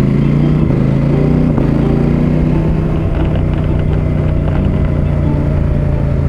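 KTM 890 Adventure R Rally's parallel-twin engine running at low road speed, its note easing down a little in the first second or two, then holding steady.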